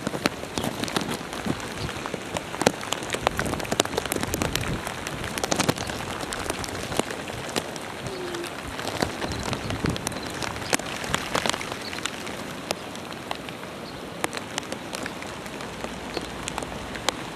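Hurricane rain falling steadily, a constant hiss of rain with many sharp individual drops striking close by.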